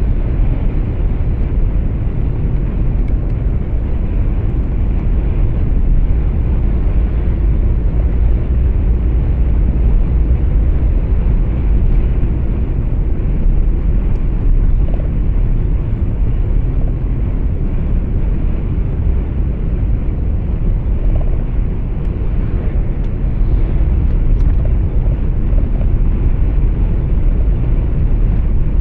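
Steady low rumble of road and engine noise heard inside a moving truck's cab, with no distinct events.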